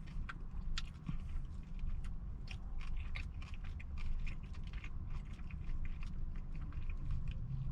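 Close-up chewing of a crispy fried chicken sandwich, with irregular wet crunching and clicking sounds of the breaded chicken and bun being bitten and chewed.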